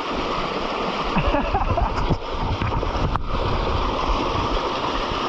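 Rushing water of a small waterfall, pouring steadily, with a faint voice and a brief click about three seconds in.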